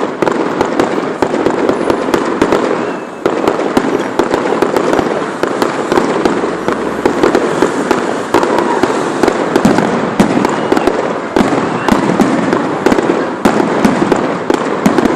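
Fireworks display going off in a rapid, continuous barrage of bangs, many close together every second.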